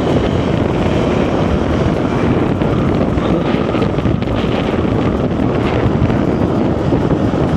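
Steady wind noise buffeting the microphone while riding, over the running single-cylinder engine of a Hero XPulse 200 4V motorcycle.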